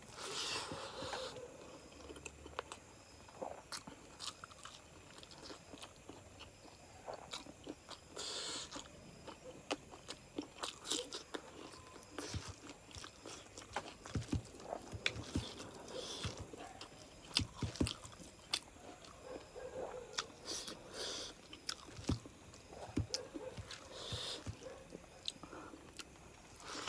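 A person chewing mouthfuls of chicken curry and rice eaten by hand, with many short, irregular mouth clicks.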